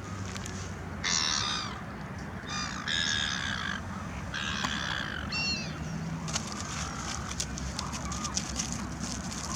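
Three harsh, drawn-out bird calls in the first half, with a few short higher notes after them. From about six seconds in, a fine, steady crackling patter takes over.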